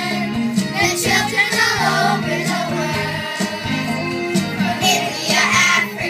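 Children's choir singing a song with instrumental accompaniment and a steady beat.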